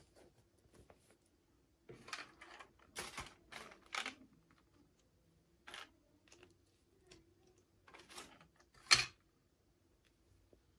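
Unboxing of miniature dolls and their plastic packaging by hand: scattered crinkly rustles and small clicks, with one sharp, louder click about nine seconds in.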